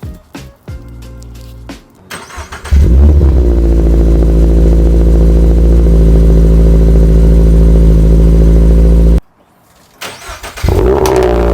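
Toyota GR86/Subaru BRZ flat-four engine starting through a freshly fitted Cobb cat-back exhaust. It catches a couple of seconds in with a brief flare, then settles to a loud, steady, low idle. After a short break it starts again near the end.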